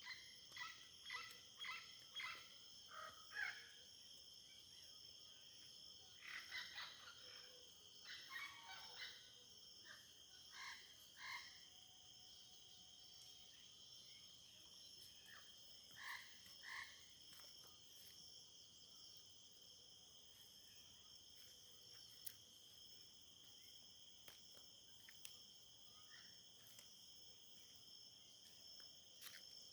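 Faint frog calls, short notes repeated in clusters every few seconds and thinning out after the first half, over a steady high-pitched insect chorus.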